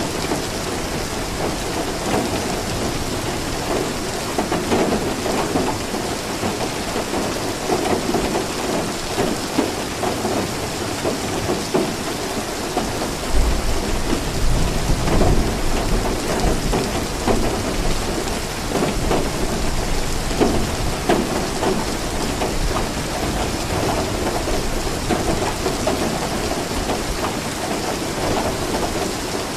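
Steady rain falling, with a low rumble of thunder rolling in about halfway through and lasting a few seconds.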